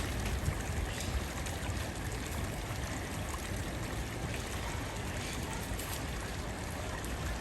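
Steady running water with an even rush and no distinct events.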